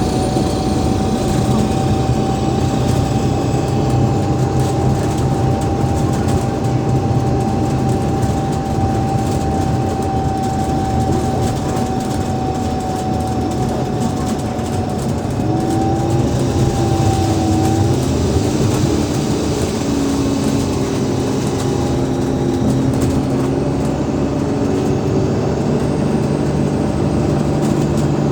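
Alexander Dennis Enviro500 MMC double-deck bus under way, its Cummins ISL8.9 diesel and ZF Ecolife six-speed automatic running with a steady low hum. A thin steady whine holds for about the first half, then wavers and gives way to lower whines that shift in pitch in the second half.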